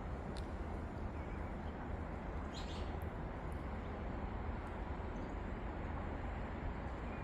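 Steady outdoor ambience with a low rumble, a few faint ticks and a brief high chirp about two and a half seconds in.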